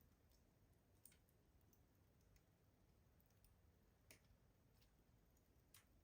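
Wood fire crackling in a rustic stove: faint, sparse pops, with sharper ones about a second in, about four seconds in and near the end.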